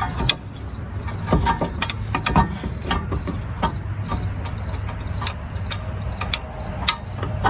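Scattered metal clinks and knocks as a brake caliper bracket and its bolt are handled and lined up on a car's rear hub, over a steady low rumble.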